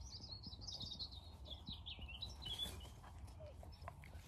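A songbird singing one rapid phrase of high notes that falls in pitch over about two and a half seconds, over a low rumble of wind on the microphone.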